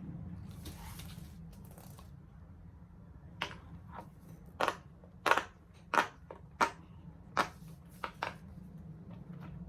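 Bubbles of a large silicone pop-it fidget toy being pressed one at a time: about ten sharp pops, roughly one every half second, starting about three seconds in. A brief rustling swish comes near the start.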